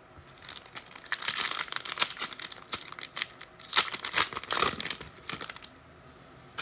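Foil wrapper of a football trading-card pack being torn open and crinkled: a dense run of crackling that lasts about five seconds, then stops.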